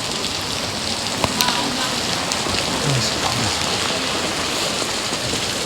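Heavy rain falling and pattering on surfaces, a steady dense hiss, with a few sharp drip-like clicks about a second and a half in.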